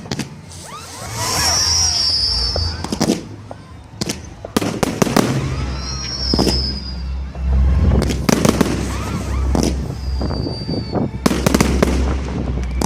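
A fireworks display: repeated sharp bangs and crackling bursts, with three high whistles along the way and a steady low rumble underneath.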